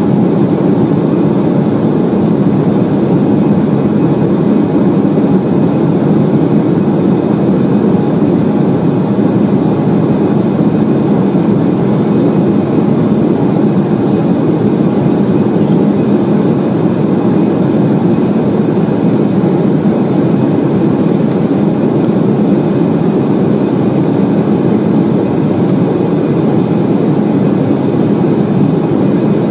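Steady in-flight cabin noise of an Embraer E190 airliner: the even rumble of its turbofan engines and the air rushing past the fuselage, with faint steady high tones above it.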